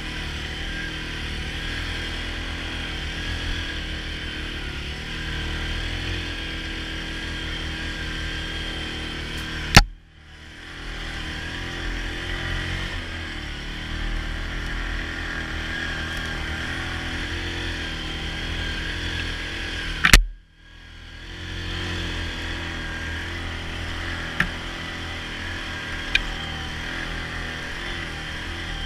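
Yamaha Grizzly ATV on snow tracks, its engine running steadily. Two loud sharp clicks about ten seconds apart are the loudest sounds, each followed by a moment of near quiet before the engine sound returns.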